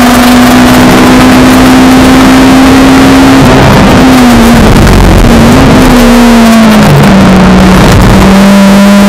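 Honda Civic Type R's K20A2 four-cylinder engine, heard loud from inside the cabin while lapping a track: it holds high revs steadily for about three seconds, then the revs waver and drop as the car brakes and downshifts for a corner, and settle at a lower steady pitch near the end.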